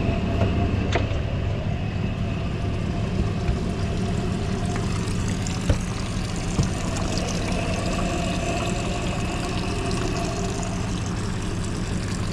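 Suzuki DF200 four-stroke outboard motor idling steadily after starting. A couple of sharp clicks come through, one about a second in and one about halfway.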